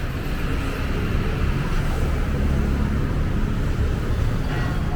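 Street traffic: a steady low rumble of vehicle engines passing on a city road.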